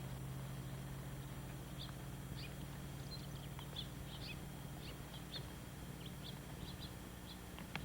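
Small birds chirping, a scatter of short high chirps starting about two seconds in, over a steady low hum, with a single click near the end.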